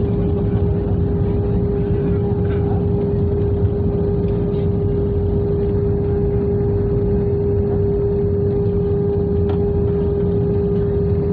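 Airbus A320 cabin noise while taxiing after landing: a steady low rumble of the engines and air systems with a steady mid-pitched hum.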